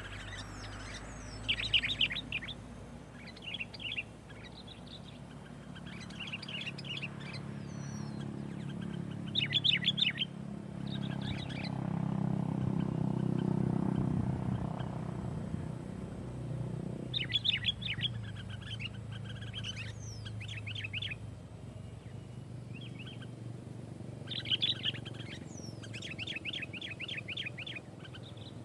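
Sooty-headed bulbul (kutilang) singing in short, rapid bursts of chirps every couple of seconds, with gaps between phrases. A low hum swells and fades midway.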